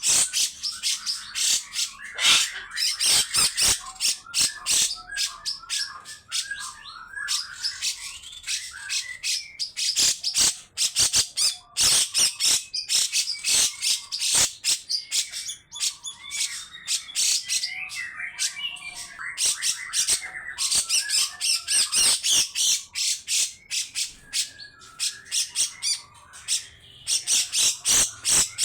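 Cucak jenggot bulbul calling: long runs of harsh, rapid, rasping notes, broken by short warbled phrases.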